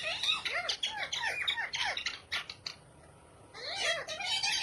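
Pet parrot chattering in a quick series of short squawks, breaking off for about a second past the middle and then starting again.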